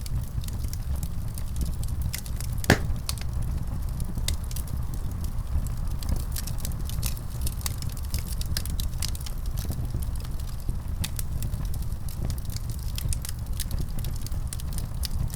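Wood fire in a fireplace crackling, with a steady low rumble of burning and frequent small sharp pops, one louder pop about three seconds in.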